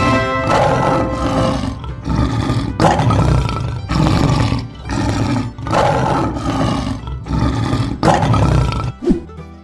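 Lion roar sound effect: a series of loud, rough roars, one after another, that stop about a second before the end.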